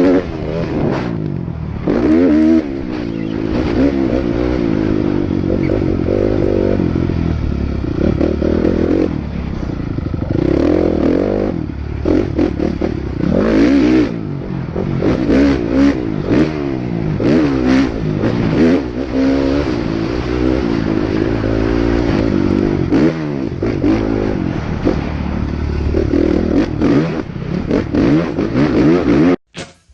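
Motocross motorcycle engines revving hard, pitch climbing and dropping again and again with gear changes and throttle blips. The sound cuts off suddenly near the end.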